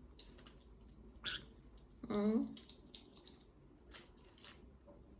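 Scattered light clicks and taps of a green-cheeked conure's beak working a walnut on a table, with a brief low hum from a person about two seconds in.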